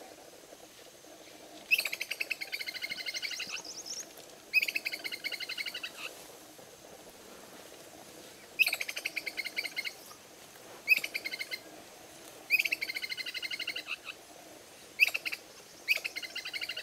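A bird calling repeatedly: seven rapid trilled phrases, each up to about two seconds long, starting loud and trailing off, with short gaps between them.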